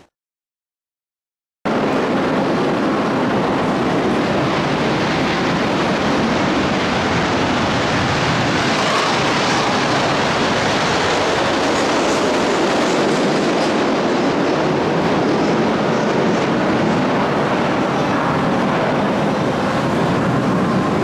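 Fighter jet engine running: a loud, steady rushing noise with no clear tone. It starts suddenly after about a second and a half of silence.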